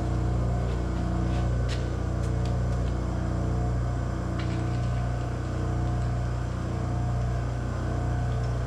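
Oil-fired shop furnace's burner motor and oil pump running with a steady electric hum, with a few faint ticks, as the pump is primed before the burner lights.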